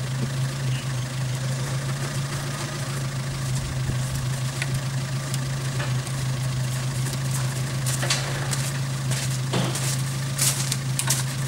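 Suzuki Vitara's engine idling steadily while the vehicle sits stuck in a mud rut, with a few sharp clicks and knocks in the last few seconds as the front winch hook is handled.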